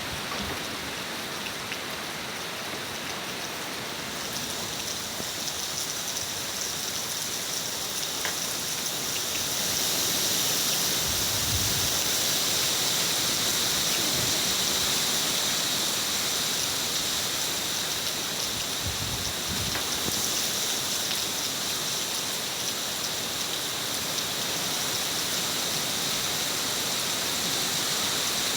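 Heavy rain with wind: a dense, steady hiss that grows louder about ten seconds in, with a couple of brief low rumbles from gusts.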